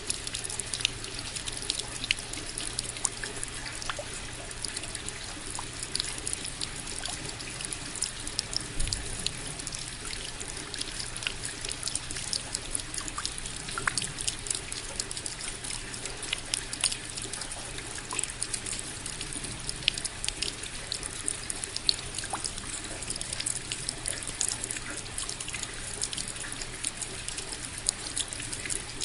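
Steady rain, an even hiss with many separate drops ticking sharply on top.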